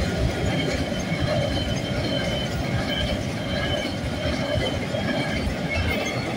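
A freight train's container wagons rolling past over a level crossing: a steady rumble of wheels on rail, with short faint high tones coming and going.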